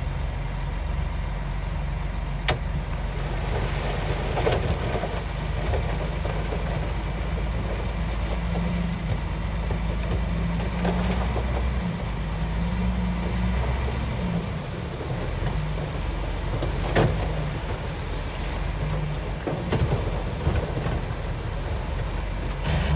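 Heavy diesel engine of earthmoving machinery running steadily, with a few short sharp knocks now and then.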